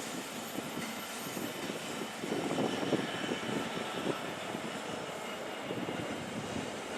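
A train running along the track, with steady rolling noise and some wheel clatter about two to four seconds in.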